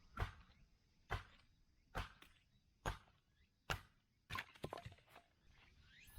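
Firewood being chopped: five sharp strikes a little under a second apart, then a quick cluster of lighter knocks and cracks.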